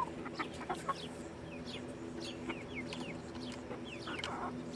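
Backyard chickens clucking softly, with many short, high peeps that fall in pitch, several a second.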